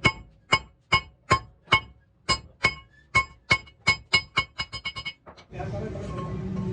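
Hammer striking steel in a series of sharp blows, each ringing at the same metallic pitches. The blows come about two a second at first, quicken into a fast run of light taps, then stop.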